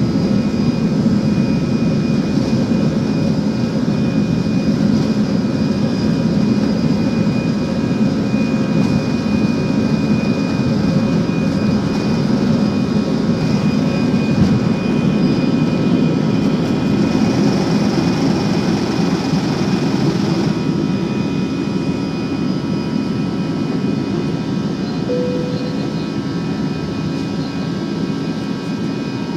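Airbus A320 jet engines heard from inside the passenger cabin: a steady, loud rumble with a thin, steady whine on top. A hiss joins in a little after the middle for a few seconds and cuts off suddenly, and the overall level eases slightly near the end.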